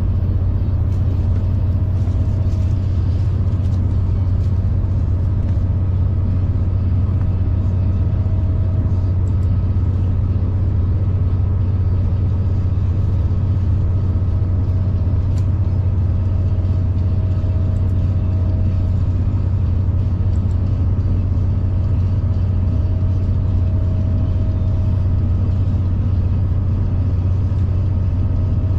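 A V/Line passenger train running at steady speed: a constant low rumble with a faint, steady whine above it.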